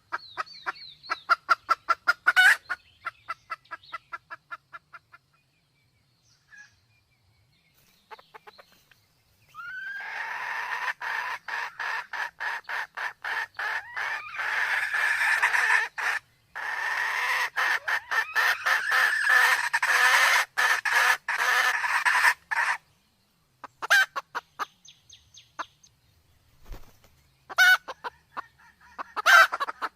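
Red junglefowl calling: fast runs of short, repeated clucking notes, then a louder, denser stretch of rapid notes through the middle that breaks once, with more runs of clucks near the end.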